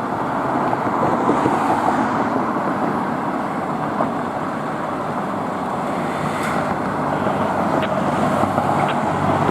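Fire engine on the move: steady engine and road noise, with no siren heard.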